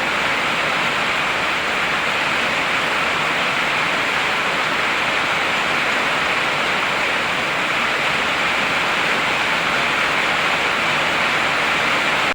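Heavy rain pouring steadily, an even unbroken hiss with no thunder.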